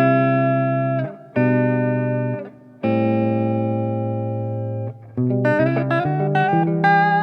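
1989 Epiphone Les Paul electric guitar with Seymour Duncan Pearly Gates pickups, played through a Fender Mustang GT100 amp. Chords are struck one after another, with a long ringing chord in the middle, then quicker picked notes near the end.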